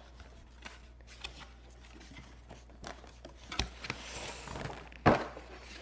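Packaging being handled while a robot vacuum's box is opened: soft rustling of cardboard and plastic, with two sharp knocks, the louder one near the end.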